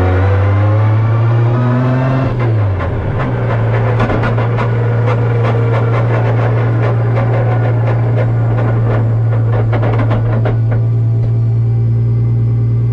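Toyota 2JZ straight-six in a GR Supra drift car, heard from inside the car: the engine revs up, its pitch rising for about two seconds, then drops. It then runs at a steady speed with many sharp clicks and rattles over it, and these stop about ten seconds in.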